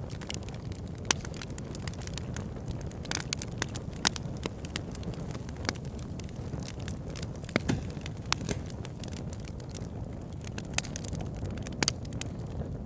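Wood fire burning in a fireplace: a steady low rumble of flames under frequent crackling, with a few sharper pops from the burning logs.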